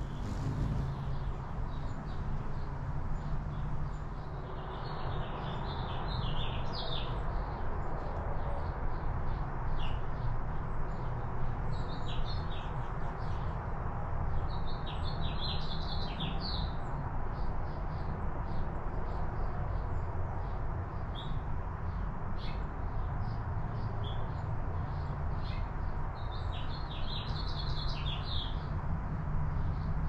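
Small birds chirping in short bursts of quick high notes, about five bursts spread over the time, over a steady rushing background noise.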